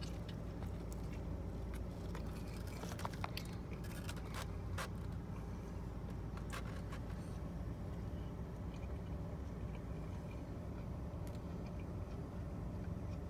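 Soft clicks and crunches of someone chewing a taco, mostly in the first five seconds, over a steady low hum.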